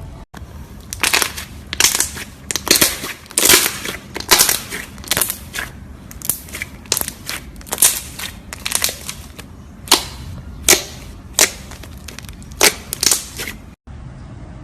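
A run of sharp, crisp cracking crunches, uneven and about one or two a second, as something brittle is crushed. The sound drops out briefly just after the start and near the end.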